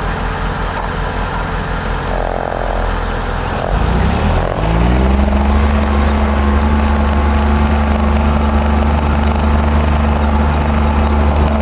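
Heavy diesel engine of a Timberjack forwarder running at low speed, then revving up about four seconds in and holding at a higher, steady speed.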